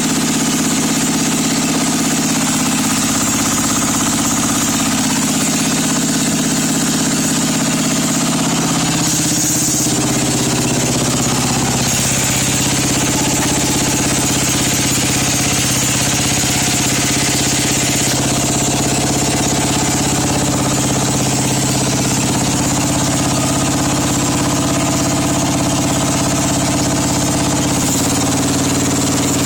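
Small gasoline engine running at idle, warming up after a cold start in freezing weather. Its engine note shifts about nine to twelve seconds in and drops slightly near the end.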